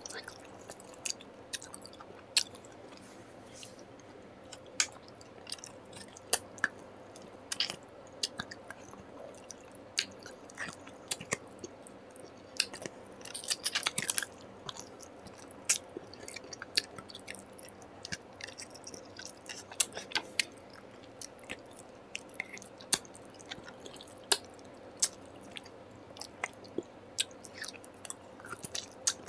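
A person chewing and eating food close to the microphone: irregular wet mouth clicks and smacks, with a quick run of clicks about halfway through.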